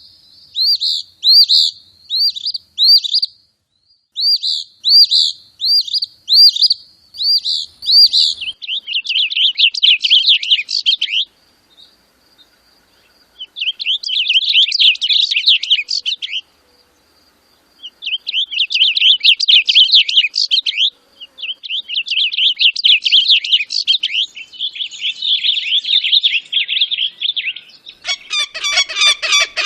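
Bird calls: a series of sharp, evenly repeated high chirps, about two a second, then phrases of rapid chattering trills broken by short pauses. Near the end a louder, lower and harsher call begins.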